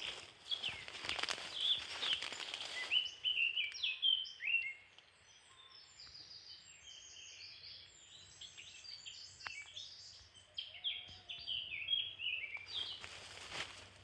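Small songbirds singing in many quick, short chirped notes. Rustling of footsteps in undergrowth fills the first few seconds and returns near the end.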